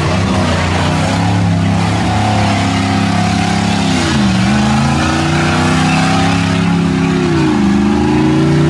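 Modified Chevy 4x4 truck's engine running hard at high revs through a mud bog, the pitch dipping and climbing back twice as the throttle is eased and opened again.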